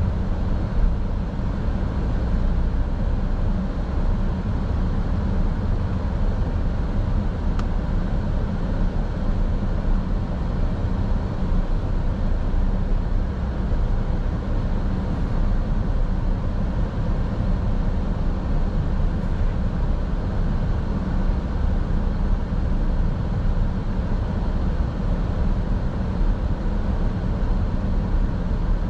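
Steady road and engine noise of a car driving, heard from inside the car as a low, even rumble. There is one faint tick about seven and a half seconds in.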